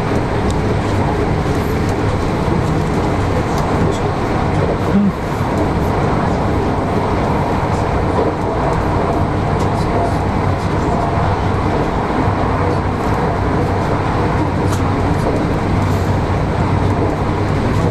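Steady running rumble of a passenger train at speed, heard from inside the carriage, with occasional faint clicks.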